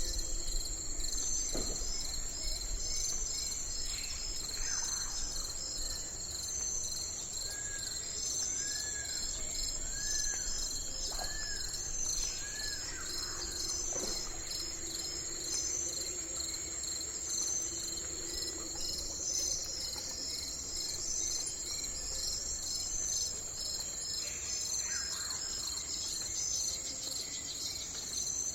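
Steady chorus of insects, a dense high pulsing trill. A bird calls over it, with a run of five short arched notes near the middle and a few scattered chirps.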